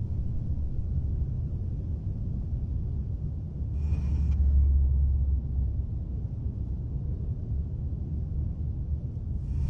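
A steady low rumble that swells briefly about four seconds in, where a faint higher sound also comes and goes.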